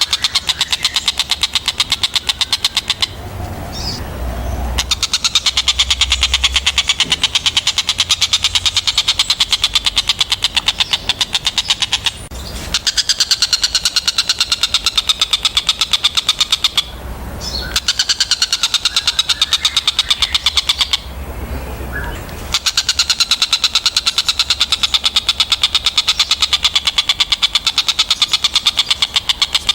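Tengkek buto kingfisher giving a long, fast rattling chatter of rapidly repeated harsh notes, broken by a few short pauses.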